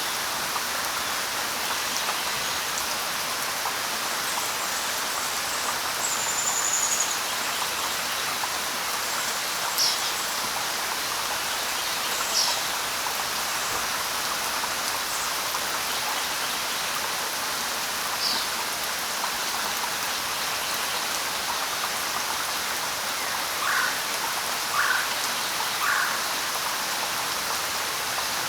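Light rain falling steadily, with occasional short bird chirps: a few brief high falling calls, then three quick lower calls near the end.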